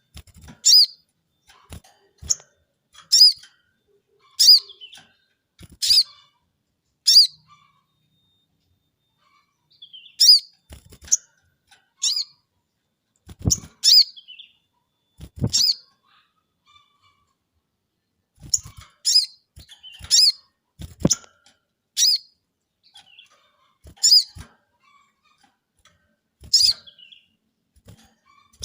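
A caged sogon bird calling over and over with short, sharp, high notes, about one a second in runs with brief pauses, the lively calling of a bird in good singing condition. Soft low knocks come with some of the calls.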